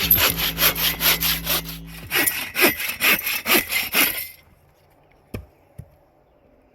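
Hand saw cutting through wood in quick, regular back-and-forth strokes, about four a second, stopping about four seconds in.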